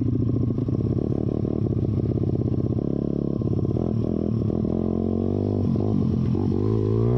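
YCF pit bike's single-cylinder engine running under way with its spark arrestor removed; the engine note shifts about three seconds in and climbs as it revs up near the end.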